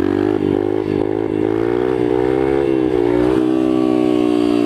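Yamaha TTR125 pit bike's single-cylinder four-stroke engine running at a steady speed while riding, its pitch wavering a little, then holding steady.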